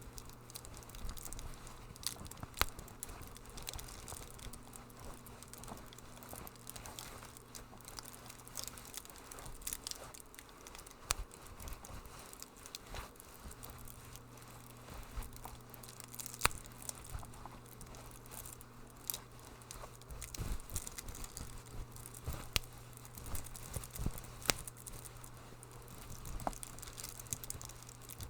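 Wood fire crackling in a fireplace: irregular sharp snaps and pops over a soft hiss, with a faint low hum underneath.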